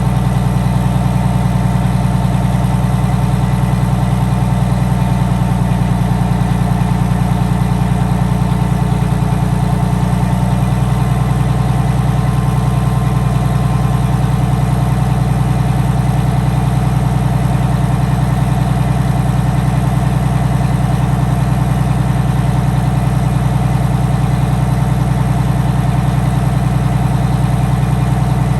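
Detroit Diesel 6V92 TA two-stroke V6 diesel idling steadily, its note shifting slightly about ten seconds in.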